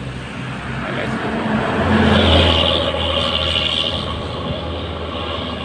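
A motor vehicle passing on the road, its engine drone and tyre noise swelling to a peak about two seconds in and then slowly fading.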